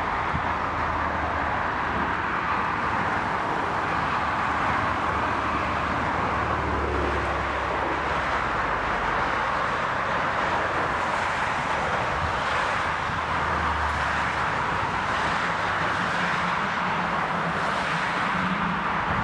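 Steady rushing noise of wind and airliner jet engines at an airfield, with a low rumble swelling up twice.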